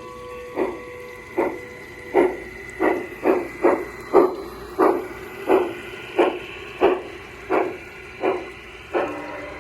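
Piko G scale Camelback locomotive's digital sound module playing steady steam exhaust chuffs as the model runs, about one to two a second, briefly quicker near the middle.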